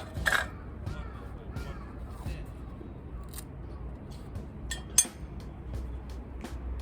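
Scattered light clicks and clinks of small hard objects being handled, with one sharper click about five seconds in, over a low steady rumble and faint voices.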